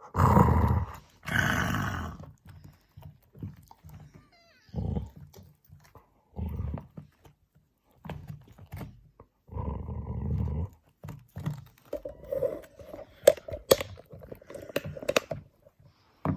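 A dog barking and growling as she guards an object her owner is reaching for. It opens with two loud barks, then shorter barks and growls follow every second or two, and there is a longer run of growling near the end.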